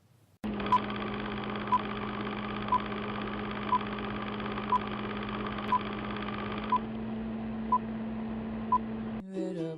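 Steady electronic hiss and hum with a short high beep once a second, nine beeps in all, like a countdown sound effect. It cuts off suddenly near the end.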